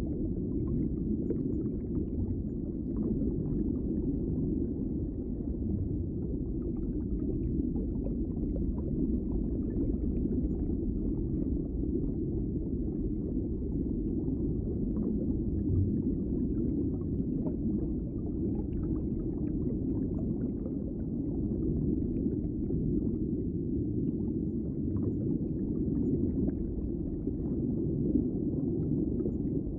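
Underwater ambience: a steady, muffled low rumble of water, with faint scattered crackles over it.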